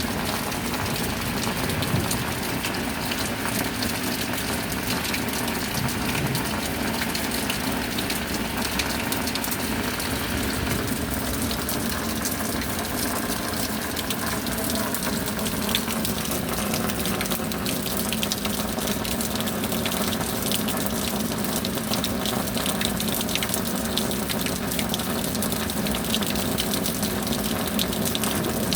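Steady rain: a dense, even wash of water with fine pattering of drops, and a faint steady hum underneath.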